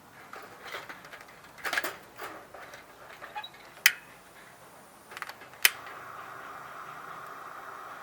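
Rustling and handling of camp gear with two sharp clicks, the second followed at once by a steady hiss that keeps going.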